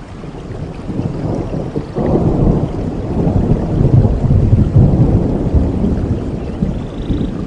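Rolling thunder over steady rain: a low rumble that swells sharply about two seconds in, peaks around the middle, then slowly fades.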